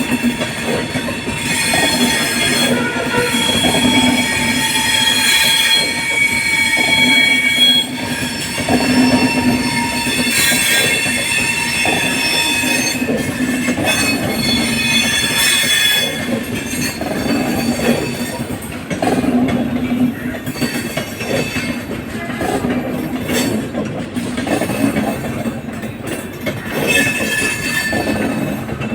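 Bandra–Jaipur Express passenger train running on the track, its wheels squealing in high steady tones that come and go, over a steady low rumble with repeated knocks of the wheels on the rails.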